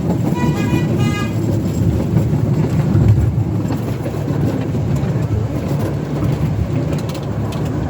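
Miniature railway train running, a steady low rumble throughout. About half a second in there is a brief high two-part tone.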